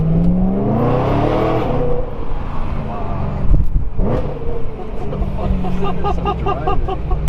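Supercharged BMW E93 M3's S65 V8 running through a custom H-pipe exhaust under acceleration. The engine note climbs for about two seconds, drops back at a gear change, then climbs again and holds.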